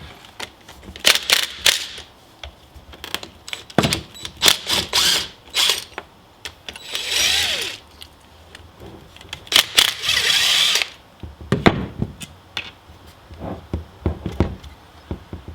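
Tool work on a dirt bike: scattered metal clicks, clanks and knocks, with two bursts of about a second each from a power tool, roughly seven and ten seconds in.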